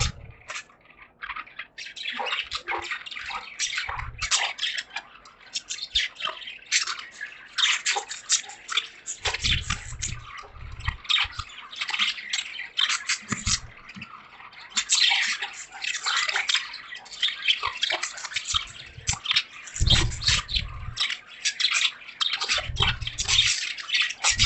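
A flock of budgerigars chattering and chirping continuously in a cage, a dense stream of short, fast calls, with a few low thuds mixed in.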